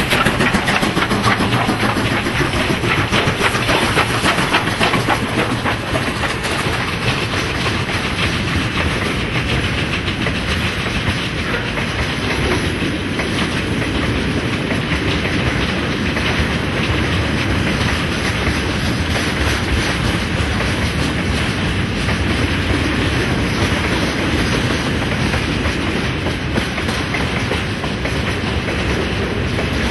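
A long freight train of tank wagons, hauled by two QJ steam locomotives, rolling past close by, its wheels clattering over the rail joints in a steady clickety-clack. The sound is a little louder in the first few seconds as the locomotives pass.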